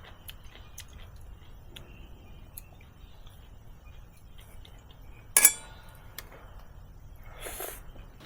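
Cooking utensils and tableware clinking: light scattered taps, then one sharp ringing clink about five seconds in, and a short scraping sound near the end.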